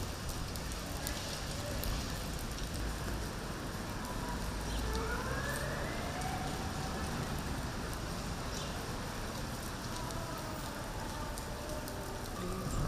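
Steady rain falling, with scattered drop ticks over a low rumble.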